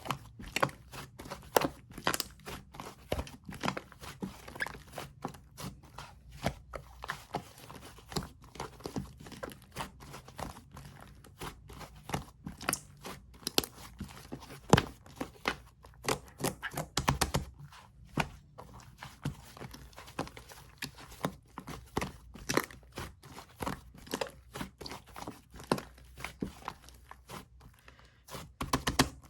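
Slime being squeezed, pressed and stretched by hand, giving an irregular run of sticky crackles and small popping clicks.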